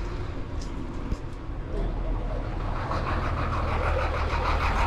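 Car driving along: steady low engine and road rumble that grows louder about three seconds in.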